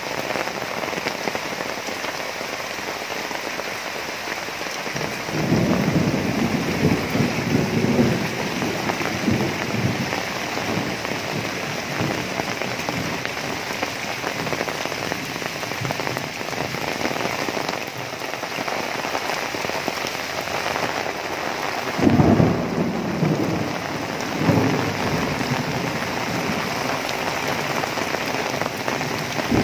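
Heavy rain pouring steadily on pavement, cars and leaves. Two spells of low rumbling rise over it, one about five seconds in that lasts a few seconds, and a shorter one around twenty-two seconds in.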